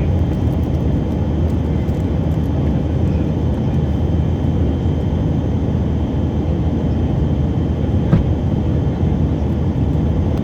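Steady loud cabin noise of a Tupolev Tu-134AK airliner in cruise flight: a low rumble of airflow and its two rear-mounted Soloviev D-30 turbofan engines, with a faint steady high tone above it. A brief knock about eight seconds in.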